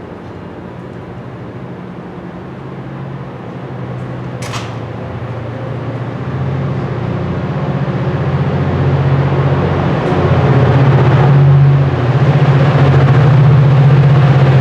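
MARC commuter train's locomotive with a steady low engine drone, growing steadily louder as the train comes closer, with one short sharp sound about four and a half seconds in.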